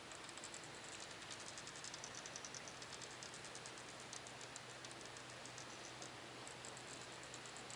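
Faint, irregular light clicking over a steady background hiss, the ticks thickest through the middle.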